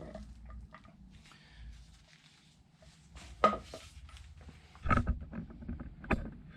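Light clicks and knocks of metal parts being handled as a new U-joint cross is set into a drive shaft yoke, with a sharper knock about three and a half seconds in and a cluster of knocks around five to six seconds in.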